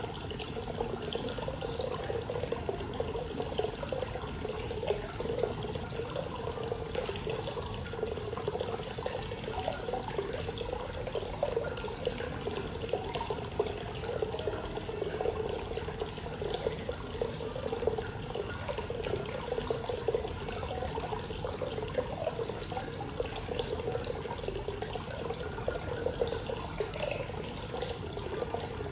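Hot-spring water pouring steadily into an outdoor bath, a continuous splashing and gurgling.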